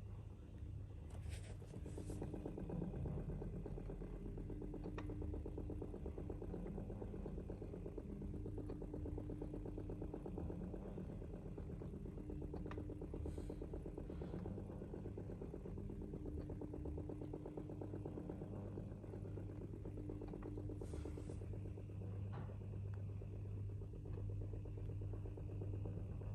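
Washing machine pump running during a Twindos maintenance program: a steady low electric hum, with a higher tone that cuts in and out every second or so and a few light clicks and knocks.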